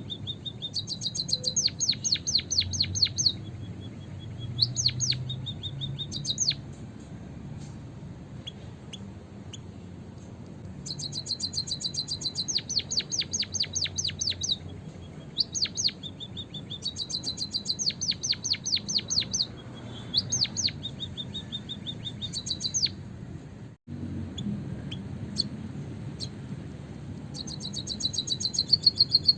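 White-headed munia (emprit kaji) calling: bursts of rapid, high chirps, each burst one to three seconds long, repeated every few seconds. It is a call played to lure wild munias.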